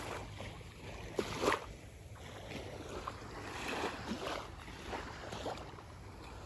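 Small waves lapping and splashing at the shoreline in shallow water, a series of irregular soft splashes, over a steady low rumble of wind on the microphone.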